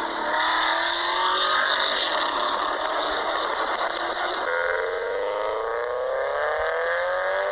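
Mazda Protege's engine and exhaust pulling under acceleration, the note rising steadily; a little past halfway the note shifts and climbs again.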